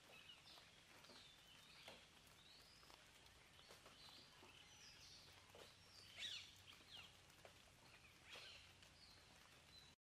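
Faint birdsong: many short chirps and quick up- and down-sweeping whistles from several birds, loudest about six seconds in, over a faint low hum.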